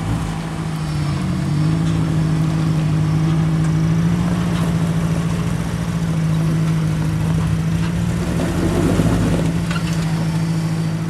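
Off-road vehicle's engine running steadily under load, its pitch stepping up about a second and a half in and then holding. There is a brief rough, grinding noise around nine seconds in.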